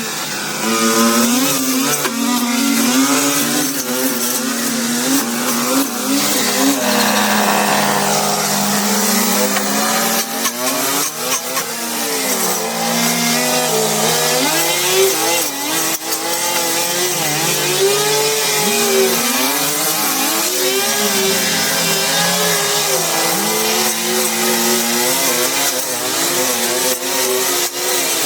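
A small engine running loud and continuously, its speed rising and falling again and again as it is throttled up and down.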